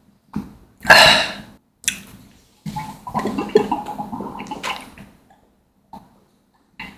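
Close-miked mouth sounds of drinking a jelly drink: a loud slurp about a second in, then a few seconds of wet swallowing and squishy chewing of the chewy bits, with short silent pauses between.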